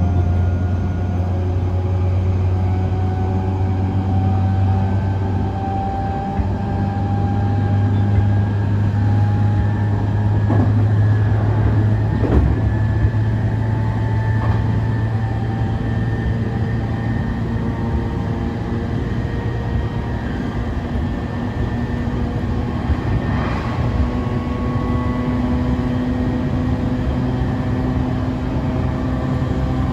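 JR East E531 series electric train running, heard from on board: its Hitachi IGBT inverter and traction motors whine in several tones that drift slowly in pitch over a steady low rumble of wheels on rail. A few short clicks come through near the middle and later on.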